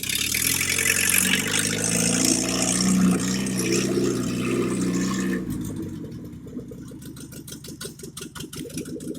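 GAZ-69 with a swapped-in VAZ engine running at raised revs, rising briefly about three seconds in, then dropping back to an even, pulsing idle about five and a half seconds in.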